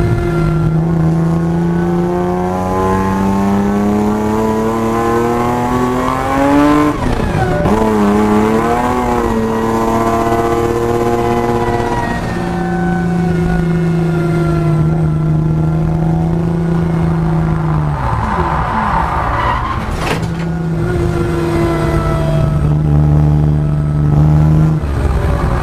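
Supercharged M50B25 inline-six of a BMW 325i E36 Compact, heard from inside the cabin, pulling hard with its pitch climbing and then falling sharply about seven seconds in at a shift or lift, wavering, holding steady, and dropping again later on. A short sharp crack comes just after the twenty-second mark.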